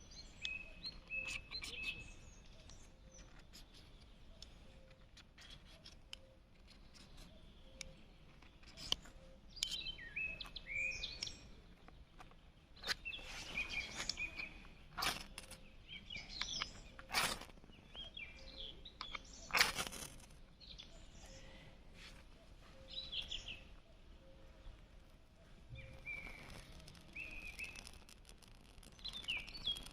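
Small birds chirping and singing, with a faint low note repeating about once a second and scattered sharp crackles and snaps, loudest around the middle.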